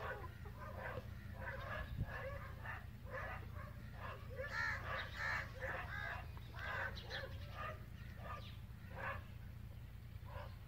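Birds calling in the background: a long run of short, arching calls, some in quick succession, over a steady low rumble.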